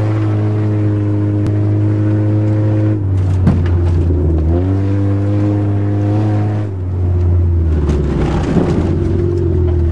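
Engine of an automatic Honda running steadily under way. Its pitch drops about three seconds in, climbs back a second and a half later, and drops again near seven seconds, as the throttle or speed changes.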